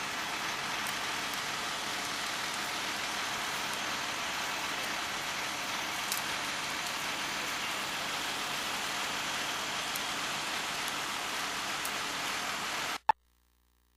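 An engine running steadily at idle, a dense even noise that cuts off suddenly about a second before the end, followed by a single click.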